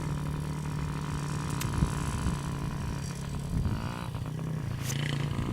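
Small child's dirt bike engine running steadily, its pitch rising and falling a few times about two thirds of the way through as the throttle is worked.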